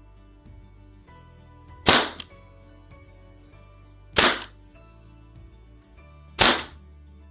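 Three loud, sharp snaps about two seconds apart, each with a short trailing tail, over background music.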